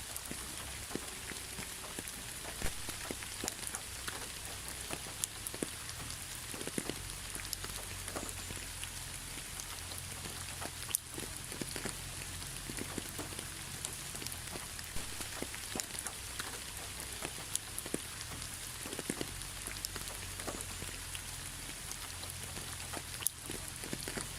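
Steady rain falling, with many single drops tapping sharply here and there over a continuous hiss and a low, even rumble underneath.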